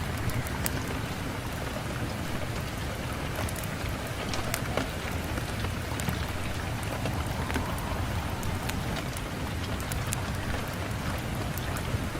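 Steady rain on a window: an even hiss of falling rain with scattered sharp ticks of single drops and a low rumble beneath.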